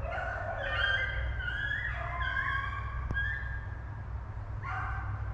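A pack of rabbit hounds baying in chorus while running a rabbit. Several long, overlapping calls at different pitches sound for the first few seconds, and one more comes in near the end.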